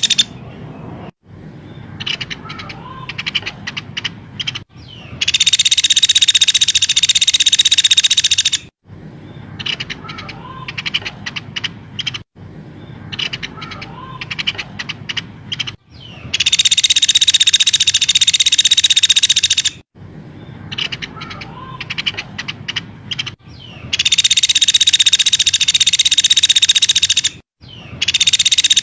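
Looped recording of songbird calls used as masteran tutoring for a white-rumped shama. About 3.5 s of loud, dense, high trilling comes three times, alternating with quieter stretches of rapid chirps and clicks, each segment cut off by a short gap.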